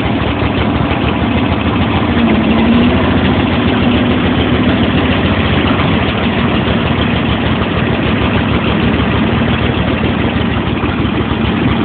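John Deere L111 lawn tractor's 20 hp Briggs & Stratton V-twin running steadily at idle on a cold start, after sitting since December.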